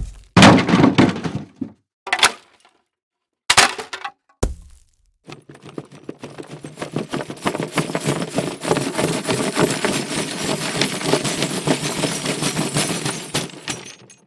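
Library impact sound effects of things breaking, glass-like shattering among them: a sharp hit, then several short separate crashes and a low thud within the first few seconds. About five seconds in comes a long stretch of dense crackling and clattering, many small clicks close together, that stops shortly before the end.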